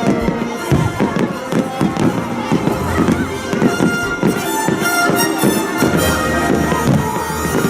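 A fireworks display with many bangs in quick succession, heard over loud music with held notes.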